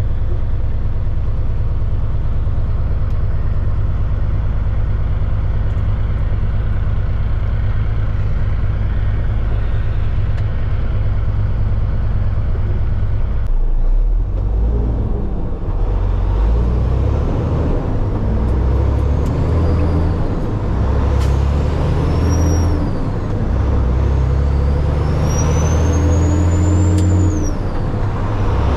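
Heavy diesel dump truck engine running steadily, then, after a brief break, revving up and dropping back repeatedly as it works through gear changes. A high whistle rises and falls with the revs, and there are a few sharp hisses and clicks.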